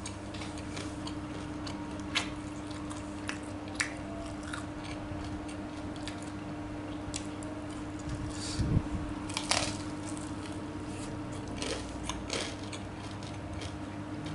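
Close-up eating sounds of tofu being chewed: wet chewing and sharp mouth clicks, over a steady low hum. A louder thump and burst of noise come about nine seconds in.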